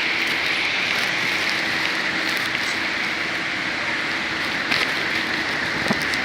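Heavy rain falling steadily, an even hiss, with a faint low hum underneath and two short knocks near the end.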